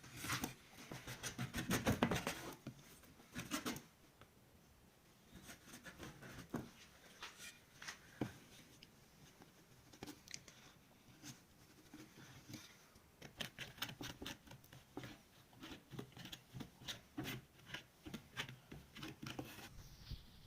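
Hand work on a wooden cricket bat under repair: a quick run of rasping strokes over the first few seconds, then scattered short scratches and clicks.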